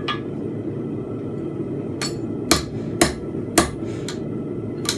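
Blacksmith's hammer striking a steel bar on an anvil while forging fence pegs. There are about six separate blows: one at the start, then after a pause a run of about two a second, over a steady low rushing noise.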